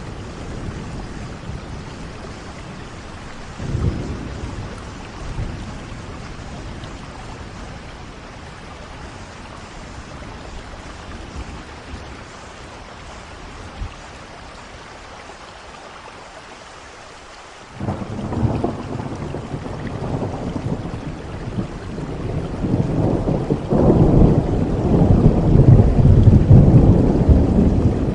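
Steady rain falling through a thunderstorm. Low thunder rumbles briefly about four seconds in, then thunder breaks in suddenly about two-thirds of the way through and keeps rolling, loudest near the end.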